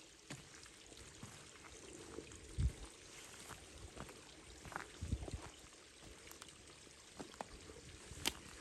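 Water trickling and pouring, with scattered small clicks and a few low thumps.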